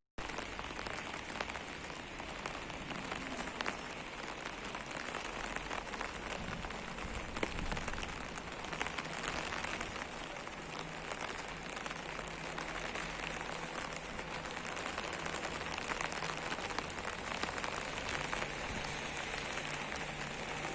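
Steady rain falling on hard surfaces: an even hiss flecked with many small drop ticks.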